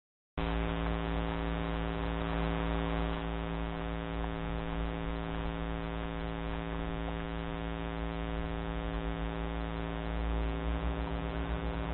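A steady low hum with many evenly spaced overtones, cutting in suddenly about half a second in; a low pulsing throb joins near the end.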